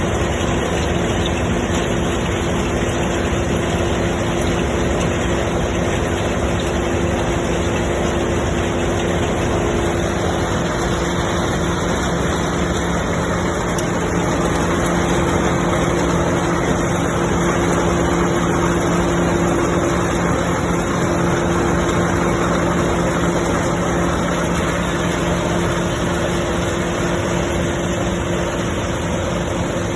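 Tractor-driven groundnut grader running: a steady engine hum under a dense, even machine noise as the grader works the groundnuts to clean off the soil.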